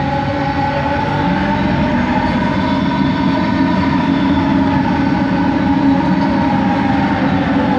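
Original Kelana Jaya Line Bombardier ART Mark II train under way, heard from inside the carriage: its motors whine with several steady tones over rumbling running noise. A low tone rises in pitch a second or two in, and a higher tone eases down near the end.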